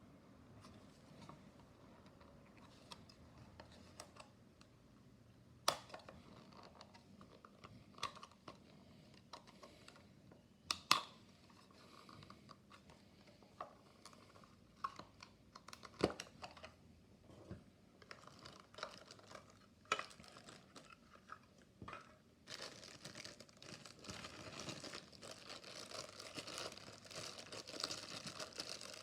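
Packaging being opened by hand: scattered knocks and clicks of a box being handled, then from about 22 seconds in a steady crinkling and tearing of wrapping.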